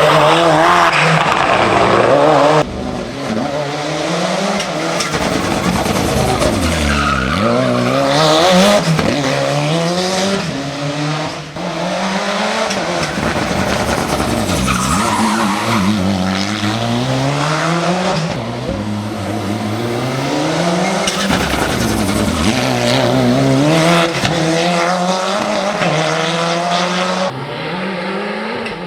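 Mitsubishi Lancer Evo VIII hill-climb prototype at full throttle, its engine note rising and dropping over and over as it shifts up and down through the gears, with brief tyre noise. The sound changes abruptly a few times, about three seconds in and again near the end.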